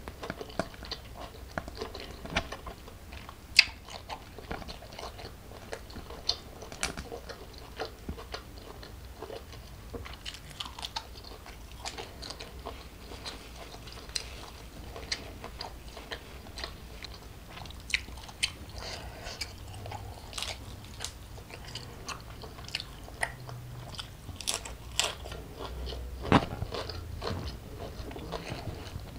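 Close-miked eating sounds: steady chewing and biting, with many sharp crunchy clicks. The loudest crunch comes about three and a half seconds in, and another comes near the end.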